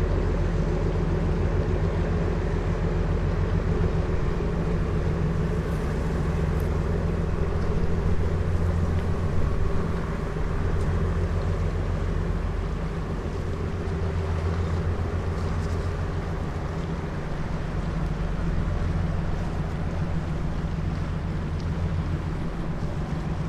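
Diesel engine of a river sand-carrying boat running steadily with a low, rapid chug, easing slightly about halfway through.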